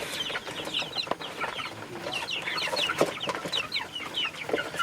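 A group of young native chickens peeping: many short, high chirps, overlapping and repeating, with a couple of brief knocks among them.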